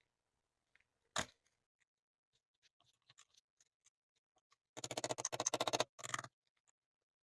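A single sharp metallic click, then two bursts of rapid ratchet-like clicking near the end, from work on the pistol's metal parts.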